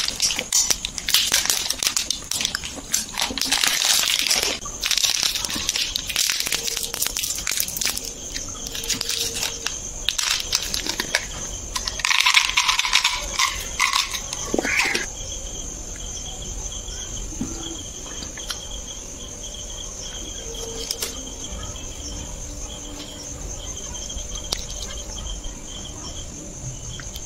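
Close-up chewing and crunching of a Cadbury Fuse peanut-and-caramel chocolate bar, with crackly wrapper handling, through roughly the first half. After that come quieter mouth sounds of eating jelly from a cup with a spoon, over a steady faint high-pitched whine.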